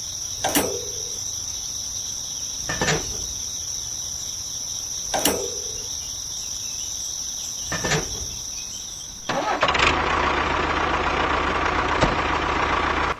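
Crickets trilling steadily, broken by four sharp knocks about every two and a half seconds. About nine seconds in, the small motor of a homemade mini tractor starts running steadily, drowning out the crickets.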